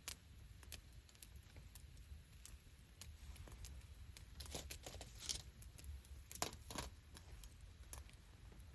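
Wood campfire crackling quietly, with scattered sharp pops, a few louder ones in the middle, over a low steady rumble.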